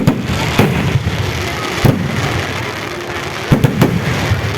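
Fireworks going off: single sharp bangs about every half second to a second, then a quick run of three near the end, over a continuous noisy din.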